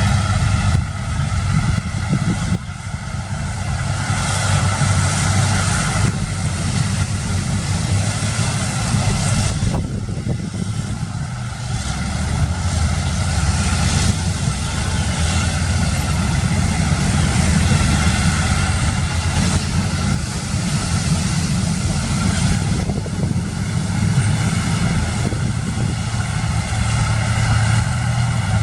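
A fishing boat's engine running steadily under a noisy wash of wind and sea.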